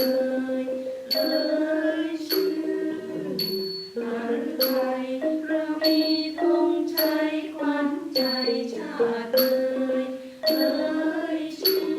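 Thai traditional music ensemble playing a slow melody, with a small hand cymbal struck about once a second to keep the beat, each stroke leaving a high ringing tone.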